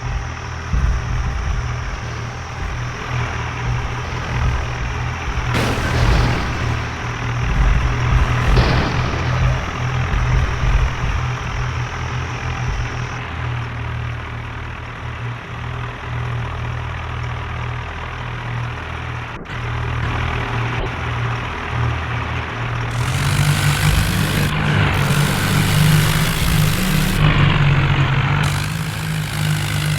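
Tractor engine running steadily, then revving higher and louder about three-quarters of the way through.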